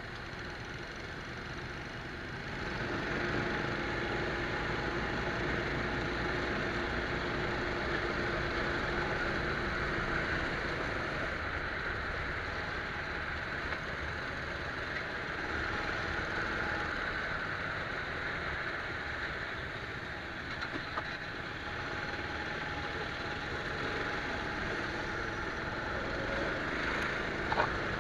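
Go-kart engine running, heard from an onboard camera; it gets louder about two and a half seconds in and then holds fairly steady.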